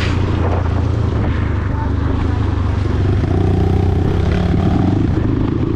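Dirt bike engine running under way, a steady low note whose sound shifts about three seconds in.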